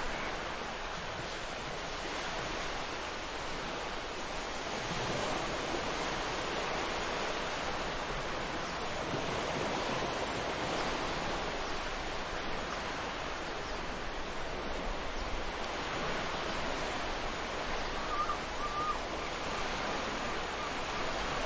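Ocean surf on a beach: waves breaking and washing in as a steady rush, with a brief bird call about eighteen seconds in.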